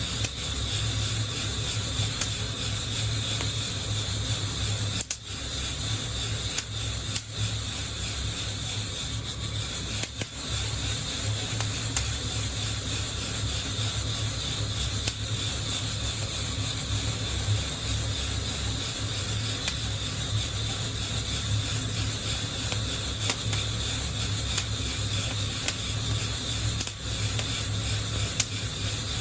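Coffee beans shaken in a hand-held mesh roaster over a burner: a steady hiss and low hum, with scattered light clicks of the beans against the mesh.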